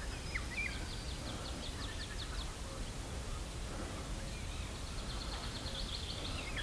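Small birds calling: a fast run of short, high ticking notes, about five or six a second, comes twice, with a few short chirps near the start, over a faint steady outdoor background.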